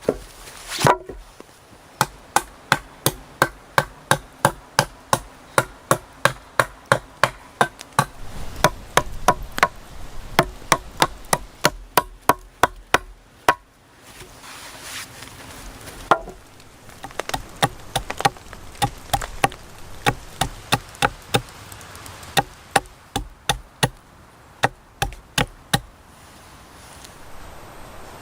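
A hand tool striking wood over and over, about two to three sharp blows a second, in two long runs with a short pause between them.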